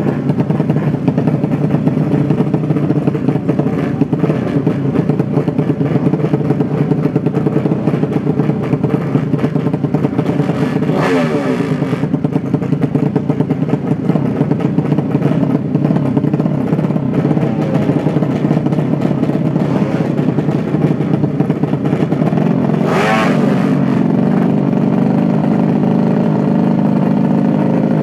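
Motorcycle engines running steadily. About 11 seconds in and again about 23 seconds in, a louder engine sweeps by, its pitch falling.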